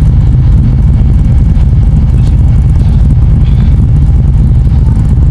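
A vehicle engine running steadily, loud and close, with a constant low rumble.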